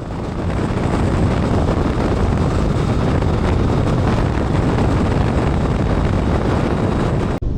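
Steady rush of wind on the microphone over motorcycle engine and road noise, riding at motorway speed. It builds over the first second and cuts off abruptly near the end.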